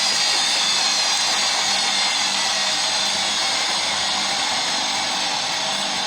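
Samsung Ecobubble washing machine on its spin cycle: the drum spinning fast with a steady rush of noise and a faint high whine that falls slowly in pitch.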